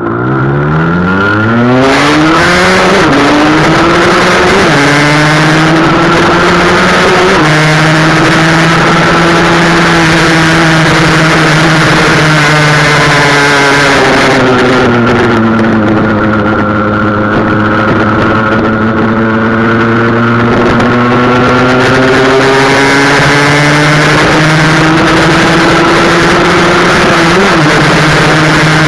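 Husqvarna SM 125 supermoto's two-stroke single-cylinder engine revving hard under acceleration, with its exhaust restrictors cut out. The pitch climbs quickly, with short dips at a few up-shifts in the first several seconds. It then holds at high revs, eases off in the middle and builds again, with one more shift near the end.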